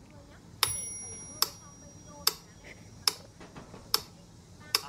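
Mechanical metronome ticking steadily, a little more than one tick a second, with its bell ringing once on the first tick.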